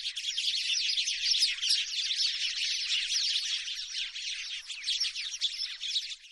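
House sparrow chirping in a dense, rapid chatter of short notes that fades out near the end.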